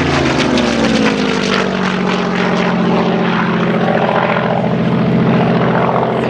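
Propeller-driven World War II fighter's V12 piston engine passing overhead during a display. Its pitch drops in the first second or so as it goes by, then it settles into a steady drone.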